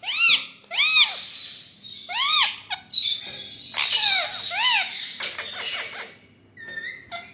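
Rose-ringed (ringneck) parakeet calling: a run of high-pitched screeches, each rising then falling in pitch, with quicker short chatter between them and a brief pause near the end.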